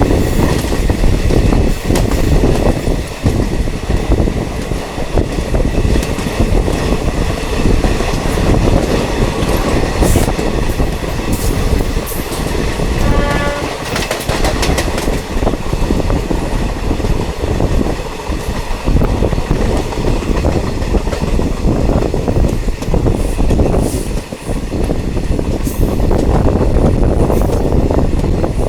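Diesel multiple unit train running, heard from on board: a steady loud rumble with wheels clattering over rail joints. About halfway through, a short pulsing tone sounds briefly, likely the train's horn.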